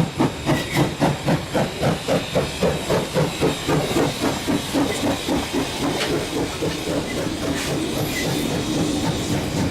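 Steam locomotive BB18¼ 1079, a Queensland Railways 4-6-2, working hard under way: its exhaust beats start at about four a second and quicken until they blur into a steady rush about halfway through, over a hiss of steam. Toward the end the rattle of the carriages on the rails comes up.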